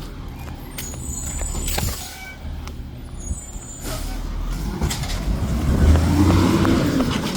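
Garbage truck engine revving up while packing trash, rising from about four seconds in, running hardest around six seconds and easing near the end. A brief high squeal and a hiss of air come about two seconds in.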